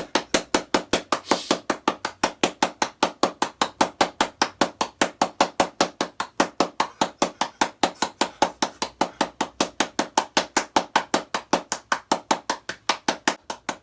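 Rapid, evenly spaced knocking or tapping, about five sharp knocks a second, kept up steadily without a break.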